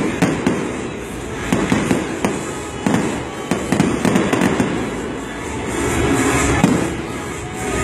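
Fireworks display: a string of sharp bangs through the first half, then a louder, denser stretch of crackling bursts, over loud music.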